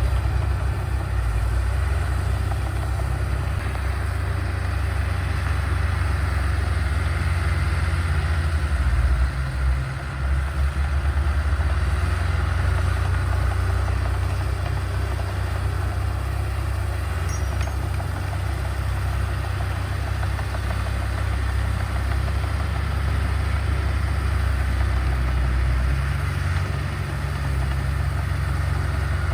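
Heavy diesel engine of earthmoving machinery running steadily, with a brief dip in level about ten seconds in.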